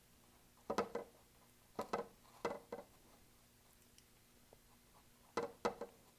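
Paintbrush dabbing paint onto a stretched canvas: quick light taps in four small groups of two or three.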